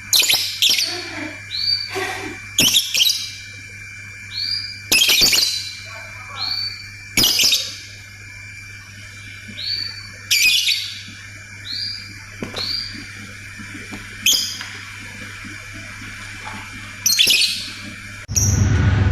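Lovebird calling in repeated short bursts of sharp chirps, with small rising notes in between. Near the end the chirping gives way abruptly to a loud, steady low hum.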